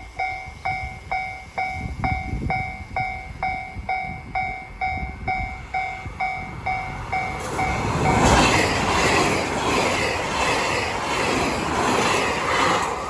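Japanese level crossing alarm bell dinging about three times a second, then a train passes at speed with a loud rush of wheel and rail noise that drowns out the bell for the last five seconds.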